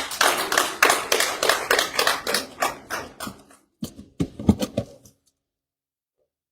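Applause from a small audience, with individual claps distinct, dying away after about three and a half seconds, followed by a few brief muffled sounds.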